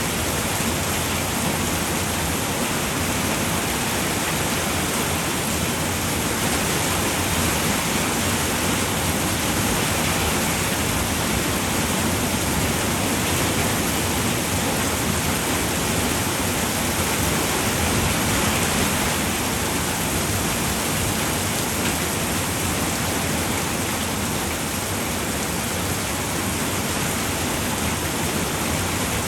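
Steady rain falling on a roof: a dense, even hiss of many drops with no single distinct strikes.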